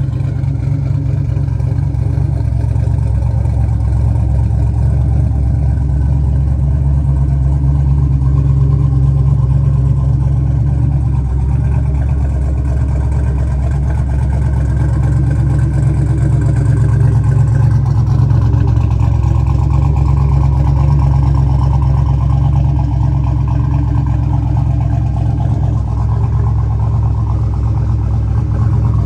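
Twin-turbocharged 5.3 LS V8 of a 1971 Chevrolet C-10 restomod idling steadily, a deep even rumble.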